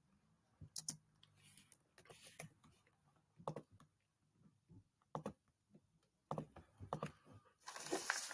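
Faint, scattered clicks and taps in a quiet small room, a few single ones spaced seconds apart, then a denser rustling clatter near the end.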